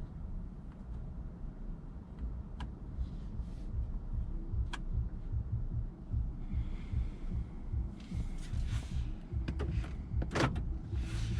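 Low, steady road and engine rumble from a Lexus RX 200t's 2.0 L 8AR-FTS turbocharged four-cylinder driving in town. There are a few sharp clicks in the first half and several short rushes of hiss in the second half, the loudest about ten seconds in.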